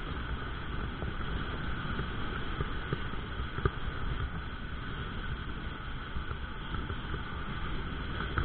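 Steady low rumbling noise, of the kind wind makes on the microphone, with a few faint clicks.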